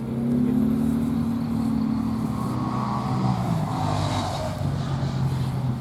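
A car engine running at low revs close by, its pitch easing down over the first few seconds and then holding steady.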